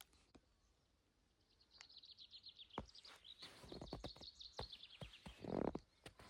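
A small songbird singing a long, fast run of high, repeated notes for about four seconds, with footsteps on the trail joining in partway through and a brief, louder low noise near the end.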